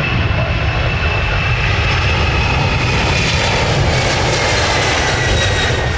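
Air Canada Rouge Boeing 767 jet engines at take-off power going past, a loud rumble with a fan whine falling steadily in pitch.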